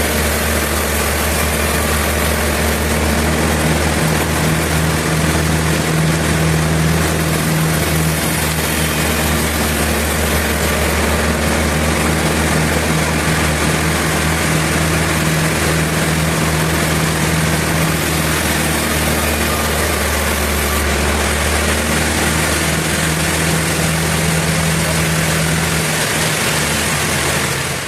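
Sawmill engine running steadily with a constant low hum, under a dense hiss of machinery noise.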